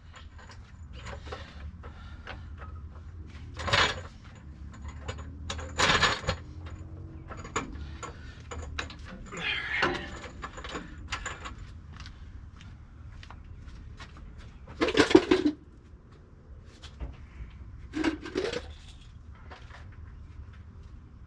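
Intermittent clinks and knocks of hand tools and parts handled during wheel work on the truck, with two louder short bursts about 15 and 18 seconds in, over a steady low hum.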